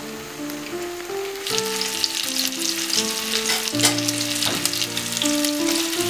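Soy 'fish' slices sizzling and crackling as they fry in oil in a cast-iron skillet; the sizzle gets much louder about a second and a half in.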